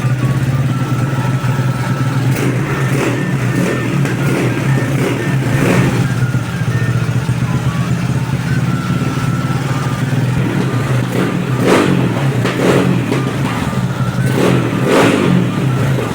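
Motorcycle engine running steadily, with several brief revs.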